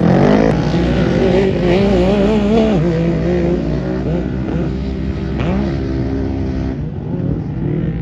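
Several off-road race vehicle engines running at once, their pitch rising and falling as the throttles are worked.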